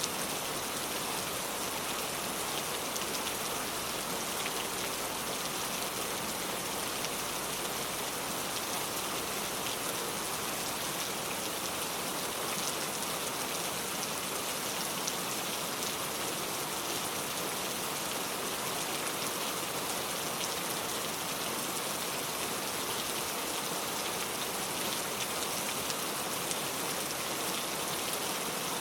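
Steady rain falling, a continuous hiss of many small drops pattering on a surface, unchanging in level.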